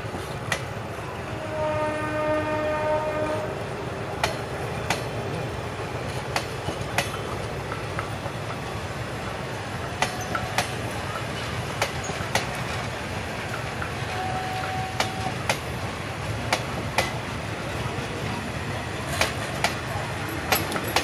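Diesel-hauled passenger train running, a steady rumble with the wheels clacking over rail joints at irregular intervals. The locomotive's horn sounds once, about two seconds in, for a second and a half.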